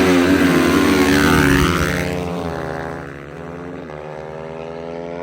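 Dirt bike engines revving hard and pulling away at full throttle, loud for about two seconds with the pitch sliding as they go, then fading. A nearby engine keeps running steadily after that.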